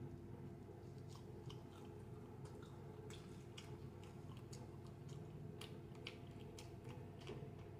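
Faint close-up chewing and lip-smacking on a bite of fried egg roll stuffed with crab cake: a loose scatter of soft wet mouth clicks over a low steady hum.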